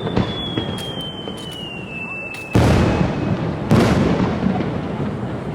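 Fireworks display: aerial shells bursting with two loud booms about a second apart past the middle, each rumbling away. Before them come a sharp crack and some crackling, over a thin whistle that slowly falls in pitch.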